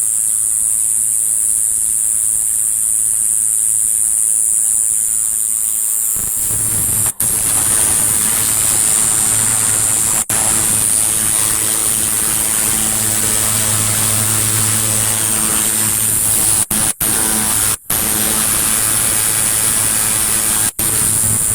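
An insect calling with a loud, continuous high-pitched trill, so loud it was first taken for a malfunctioning machine, and distorted on a close-up phone recording. The trill breaks off very briefly a few times in the second half, and a low hum joins about six seconds in.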